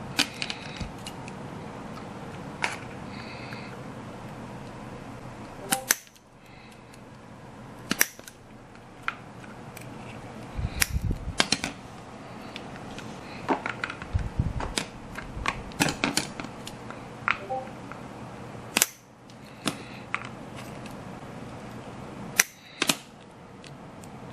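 Hand work on a paper model ship: irregular sharp clicks and snips from scissors and small paper parts being handled, with two dull thumps about halfway through.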